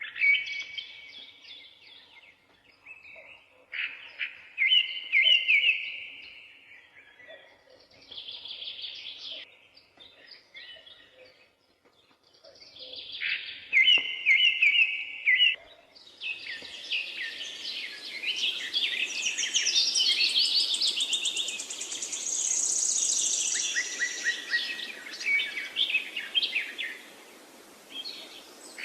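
Songbirds singing: separate phrases of quick, repeated chirping notes with short pauses between them. About 16 seconds in, a denser chorus of overlapping songs takes over, with a steady hiss beneath.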